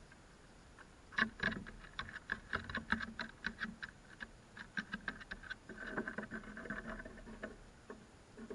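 Crows pecking at laid-out snacks: quick, irregular beak taps, several a second, starting about a second in and going on for about six seconds.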